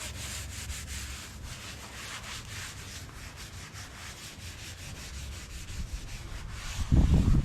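Steady rubbing and scraping of hand sanding on the cast-iron weights. A loud low thump comes near the end.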